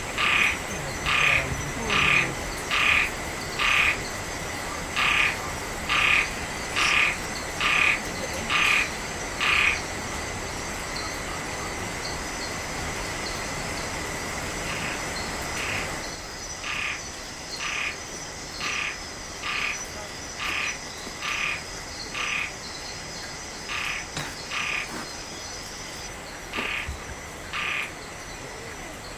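A frog calling at night in a steady series of short calls, a little more than one a second, pausing for several seconds in the middle before starting again. Steady high-pitched insect trilling runs underneath.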